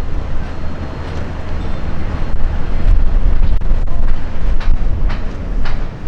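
Wind buffeting the microphone in strong gusts: a heavy, loud rumble with noisy hiss above it.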